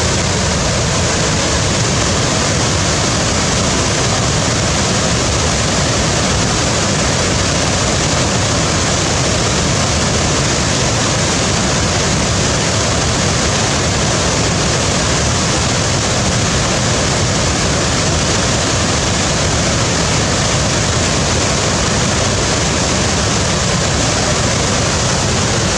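Waterfall, a steady rushing roar of falling water with no change in level.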